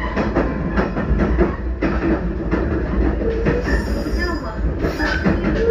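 383 series limited express electric train running along the track: a steady low rumble with frequent short clicks from the wheels on the rails, and a couple of brief squeals.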